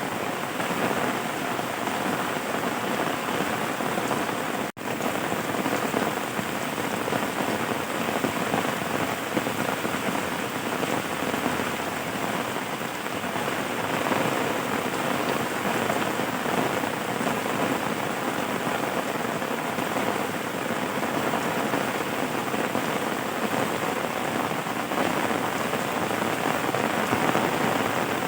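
Steady rain falling on surfaces, an even hiss of drops, broken by a split-second gap about five seconds in.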